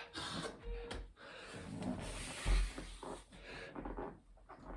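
A person doing burpees: heavy, hissing breaths, with dull thuds and scuffs of hands and feet landing on the floor about a second in and again near the middle.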